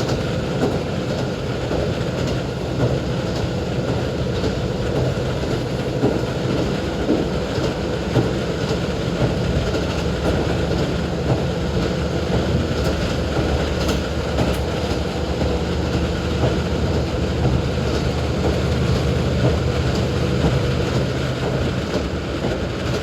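KiHa 40 diesel railcar running along the line, heard from inside the car: a steady diesel engine hum over wheel and rail noise, with the clickety-clack of the wheels crossing rail joints.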